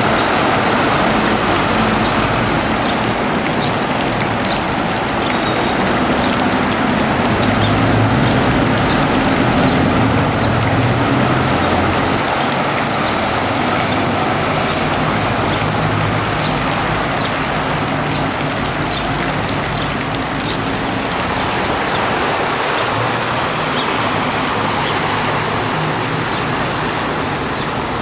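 A vehicle engine running under a steady rush of rain and water noise, with faint light ticks scattered throughout.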